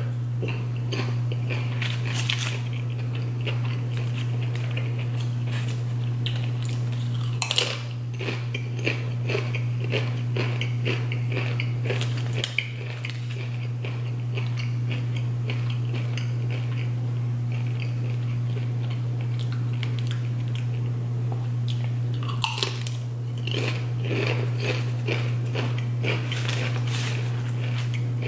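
Close-miked chewing and crunching of Doritos tortilla chips and a sub sandwich: many small crisp crunches and wet mouth sounds, over a steady low hum.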